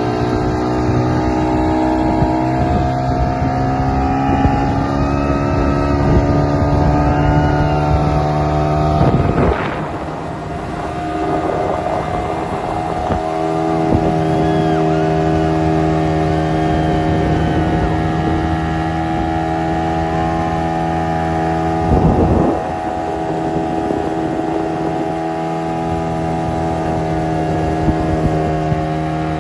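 Boat engine running steadily, its pitch climbing over the first few seconds as it speeds up, then holding. Two short loud knocks break in, about a third of the way in and again about three quarters in.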